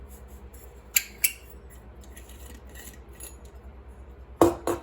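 Hard objects being handled: two sharp clicks about a second in and a louder clatter near the end, over a low steady hum.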